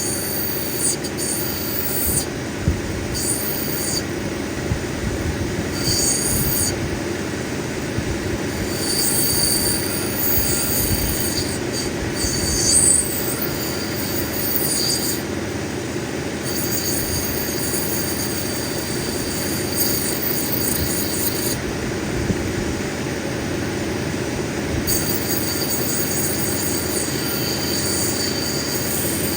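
Cabbing machine running steadily, with an opal pressed against its grinding wheel again and again. Each contact adds a high grinding hiss that lasts one to several seconds.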